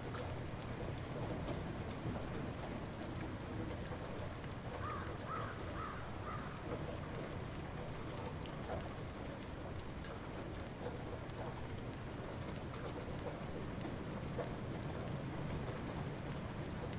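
Light rain falling steadily, an even patter with scattered drop ticks over a low rumble. A few brief high chirps come about five seconds in.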